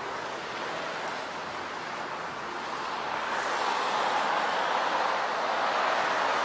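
Steady rushing roadside noise on a police body-camera microphone, growing louder about three seconds in.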